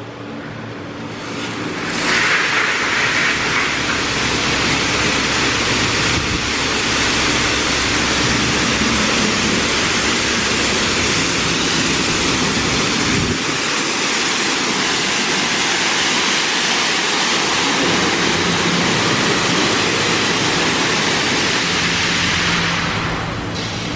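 Touchless automatic car wash's high-pressure water jets spraying a car in a steady loud hiss. The spray starts about two seconds in and cuts off shortly before the end.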